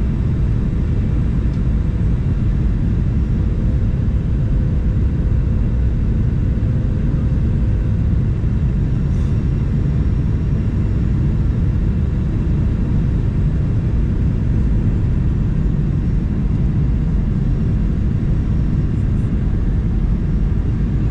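Steady low rumble inside the cabin of a Boeing 737-900 as it lands, its CFM56 engines running, with a faint steady tone over the rumble.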